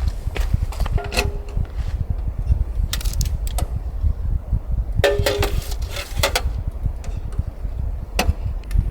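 Strong wind rumbling on the microphone, with scattered clinks and clatters of camping gear being handled, two of them briefly ringing like metal.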